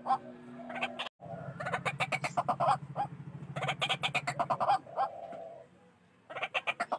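White-breasted waterhen calling loudly in bursts of rapid repeated notes, with short pauses between the bursts.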